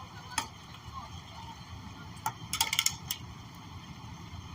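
A few sharp clicks and clinks: one about half a second in, then a quick cluster a little after two seconds. Under them runs a steady low rumble from the vehicles at the crash scene.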